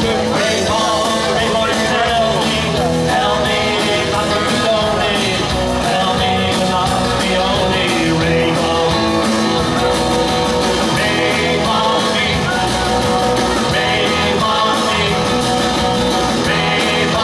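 Live rock and roll band playing, with electric guitar and a singer.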